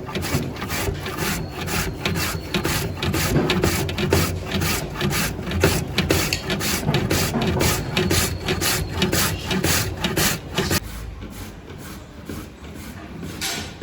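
Rhythmic scraping strokes from the making of gajar ka halwa, about three a second, which stop about eleven seconds in.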